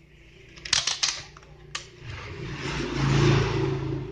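A few sharp clicks and knocks of hands working on the TV board and its cables, then a hiss with a low hum that swells for about two seconds and eases off near the end.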